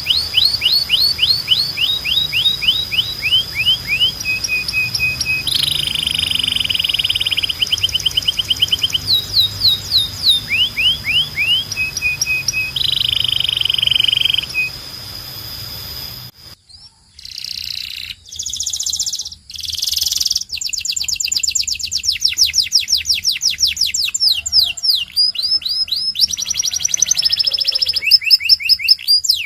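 Domestic canary singing: a string of rapid trills, each a quick run of repeated short notes, changing from one trill type to the next. Just past the middle there is a short break, and after it the trills are brighter and come in a denser run.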